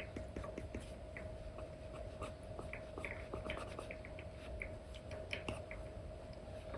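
Stylus drawing on a paper-like tablet screen film: an Apple Pencil 2 with an Elecom nib tapping and scratching in short, irregular strokes, over a faint steady hum.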